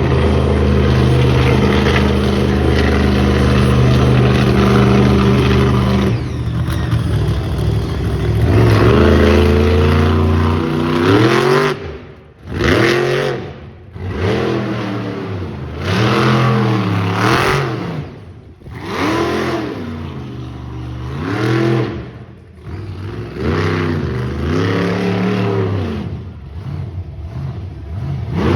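Monster truck engine running steadily, then revved over and over from about eight seconds in, the pitch climbing and falling with each rev, with short drops in between.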